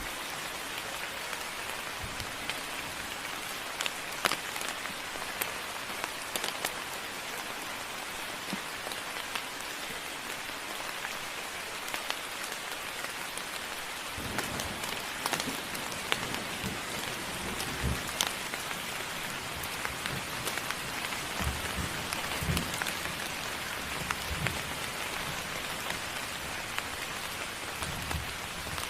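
Steady moderate rain hissing, with scattered sharper drop strikes; from about halfway, low dull thumps of heavier drops or drips join in.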